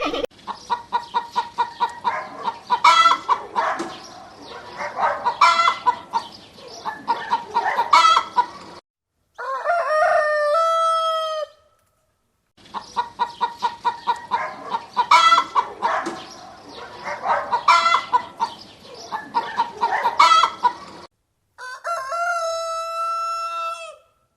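Domestic chickens clucking in fast runs of calls, each run ending in a single drawn-out crow of about two seconds. The sequence is heard twice.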